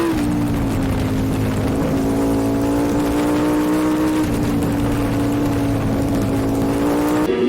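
Racing superbike engine running hard at high revs, heard on board. The pitch drops sharply right at the start, as at a gear change, then holds nearly level with slow small rises.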